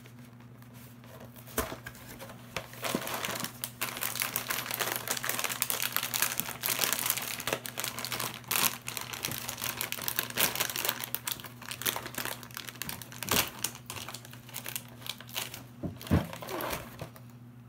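Snack packaging being opened and handled: the box and its wrapper crinkling and crackling with many small clicks, from about two seconds in until near the end.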